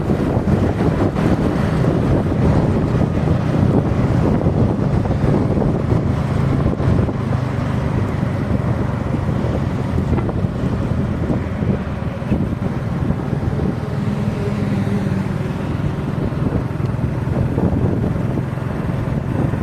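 Heavy wind buffeting the microphone while on the move, over a steady low engine hum from the moving vehicle.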